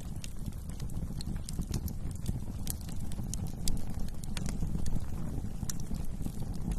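Wood fire crackling: irregular sharp pops and snaps over a steady low rumble of burning flames, with a couple of louder pops past the middle.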